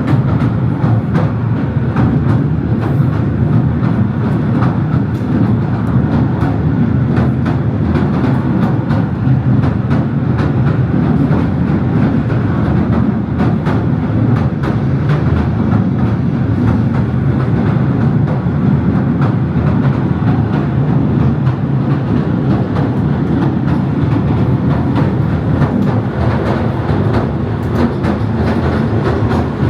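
Southend Pier Railway train running along the pier: a steady loud rumble with frequent sharp clicks and knocks from the wheels on the track.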